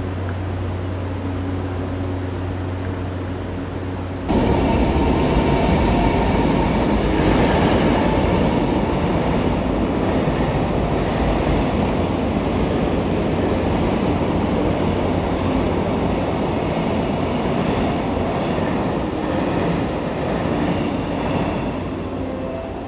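A steady low hum, then about four seconds in a sudden switch to the louder rumble of a moving train's wheels on the track, running steadily with faint high ringing tones above it.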